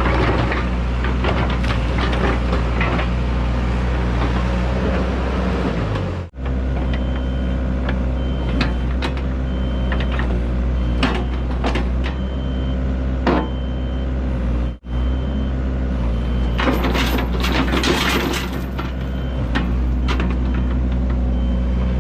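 Heavy diesel engine idling steadily, with scattered clicks and knocks and a burst of hiss about three quarters of the way through; the sound drops out abruptly for an instant twice.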